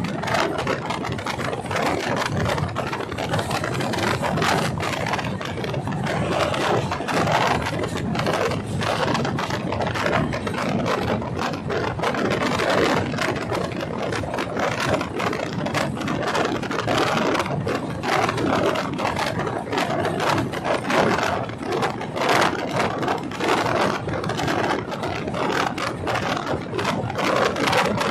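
A moving train: a steady, loud rattle and scrape of wheels on rail and of coaches jolting, running without a break.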